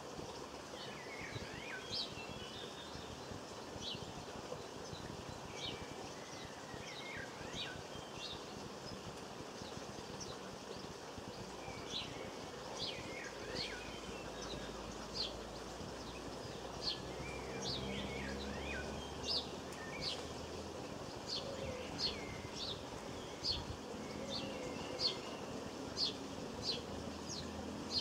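Small garden birds calling: short twittering phrases at first, then a run of sharp chirps repeated about once a second through the second half. A faint low hum runs under them partway through.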